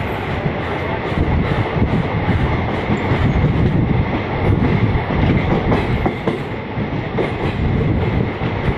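Passenger train running on the tracks: a steady, loud rumble with wheels clattering over the rail joints.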